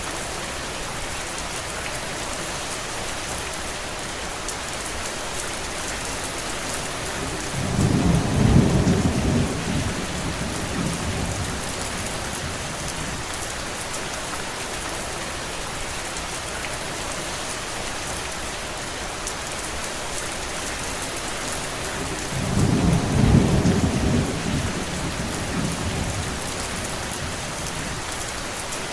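Steady rain with an even hiss throughout. Two low rumbles stand out, the loudest sounds here, each swelling and fading over about three seconds: one about eight seconds in and another a little past the three-quarter mark.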